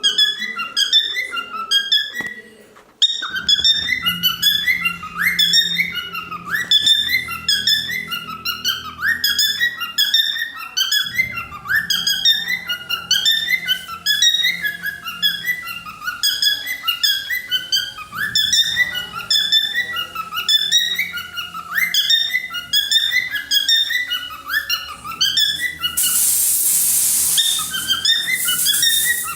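Cockatiel singing: a fast, continuous run of whistled chirps that swoop up and down in pitch, repeated in phrases, with a brief pause about three seconds in. Near the end a loud hissing noise covers the song for about two seconds.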